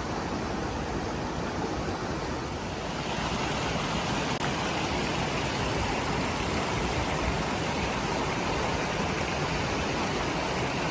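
Steady rushing of flowing river water, getting a little louder and brighter about three seconds in.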